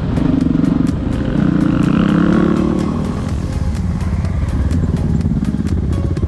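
Enduro motorcycle engine running under way. It is louder and higher for the first few seconds, then eases off after about three seconds.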